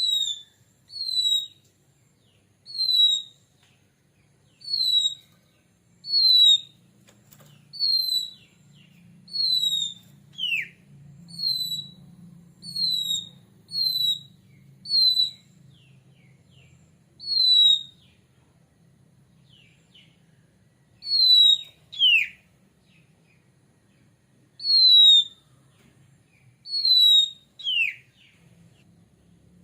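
Oriental magpie-robin giving short, clear, falling whistled notes over and over, about one every one to two seconds, with three longer downward-sliding whistles among them. It is a lure call meant to set other magpie-robins singing.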